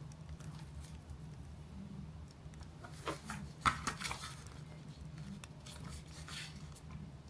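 A cluster of light clicks and short rustles about three to four seconds in, with another rustle around six seconds, over a steady low hum.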